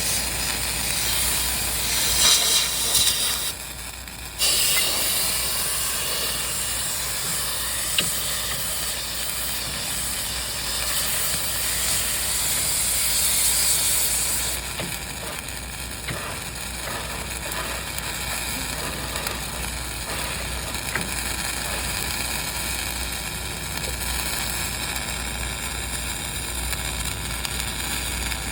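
Dual-shield flux-cored arc welding on a vertical joint: a steady crackling hiss from the arc, with a brief break about four seconds in. The hiss drops off about halfway through, leaving a steady dull background hum.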